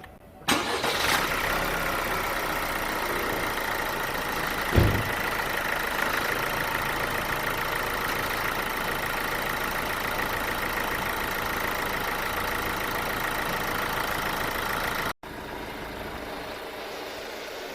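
Chevrolet 1.6 diesel engine running steadily at idle, with a short low thump about five seconds in.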